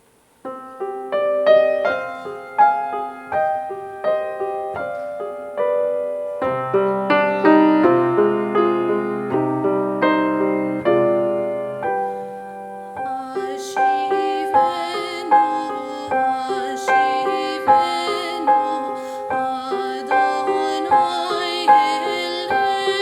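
Piano playing a slow introduction that starts about half a second in, with a low bass line in the middle section. About halfway through, higher sustained parts with vibrato come in over the piano.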